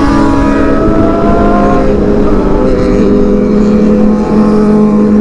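Kawasaki ZX25R's 250 cc inline-four engine running under way. Its pitch rises a little over the first two seconds, then holds steady.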